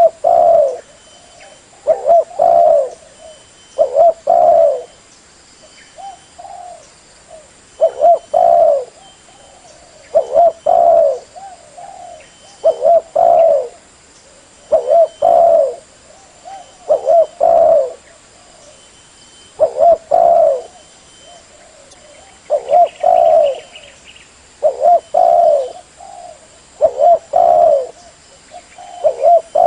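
Spotted dove (derkuku) cooing, repeating its short phrase of a few low notes about every two seconds.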